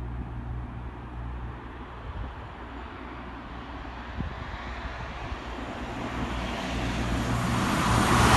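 Grand Central Class 180 diesel multiple unit approaching at speed on a non-stop pass, its noise growing steadily louder over the last few seconds as it nears.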